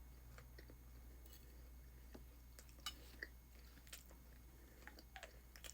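Faint chewing of a mouthful of fried rice and shrimp, with scattered soft mouth clicks and smacks.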